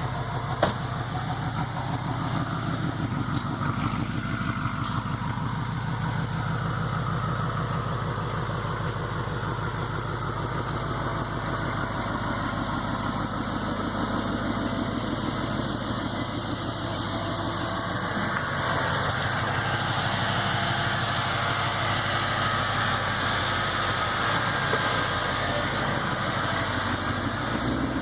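2015 Mustang GT's 5.0 L V8 idling through a Corsa Extreme exhaust, a steady low burble. The note changes about two-thirds of the way through, with the low rumble easing and more of the mid-range coming through.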